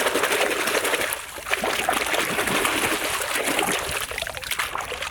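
Running water splashing and trickling over a muddy toy as it is rinsed clean.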